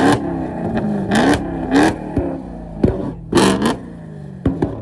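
Car engine revved in repeated blips, its pitch rising with each one, with loud sharp exhaust bangs and shorter pops between the revs: backfires of the kind that shoot flames from the tailpipe.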